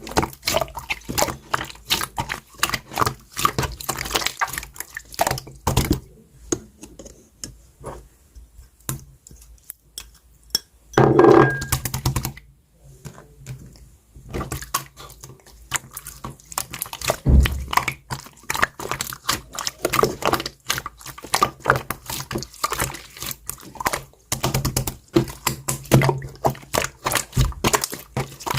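Slime being squished, poked and stretched by hand, a dense run of wet clicks, pops and squelches, with clear slime under coloured slime. A louder, longer sound about eleven seconds in.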